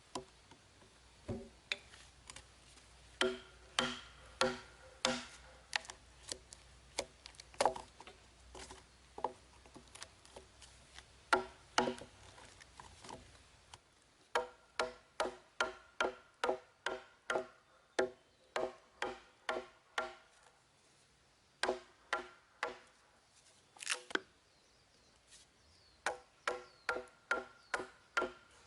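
Repeated blows of a tool striking wood, each blow sharp with a short ringing tone. The blows are scattered at first, then come in steady runs of about three a second from about halfway through and again near the end.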